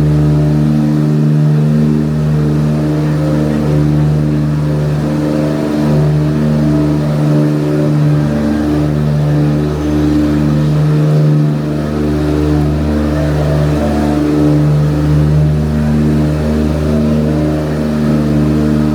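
Tour boat engine running steadily with a low, even drone and small dips in pitch now and then.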